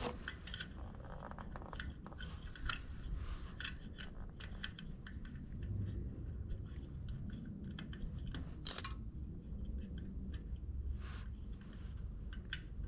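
Scattered small clicks and short scrapes of hands working the bulb and plastic housing of a Massey Ferguson tractor headlight, with one louder scrape about three-quarters of the way through, over a low rumble.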